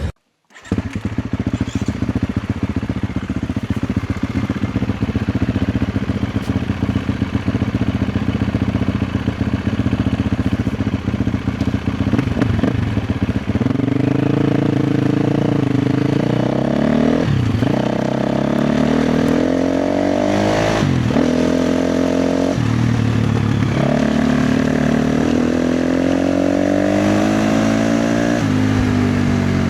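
KTM 350 XC-F dirt bike's single-cylinder four-stroke engine being ridden hard, starting about half a second in. For the first half it runs with a dense rattle of clatter. Through the second half the revs rise and fall again and again as the throttle is opened and snapped shut.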